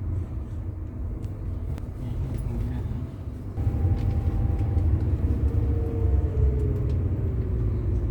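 Steady low rumble of a vehicle ride on the road, growing louder about three and a half seconds in, with a faint whine that slowly drops in pitch through the second half.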